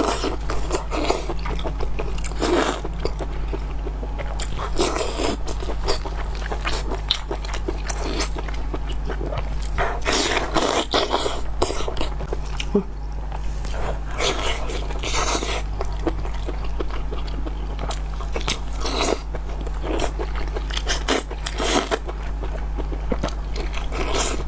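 Close-miked chewing and biting of fatty ring sausage, with irregular wet bites and mouth sounds over a steady low hum.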